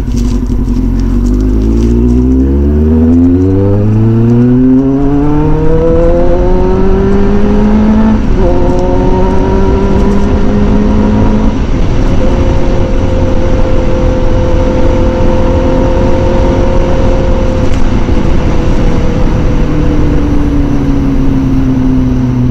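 Kawasaki ZZR600 sport bike's inline-four engine accelerating hard, revs climbing through the gears with upshifts about eight and about twelve seconds in. It then holds a steady cruise and eases off slightly near the end.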